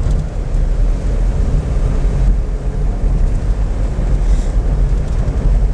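Car driving along a road: a steady low rumble of engine and tyres, with wind buffeting the microphone.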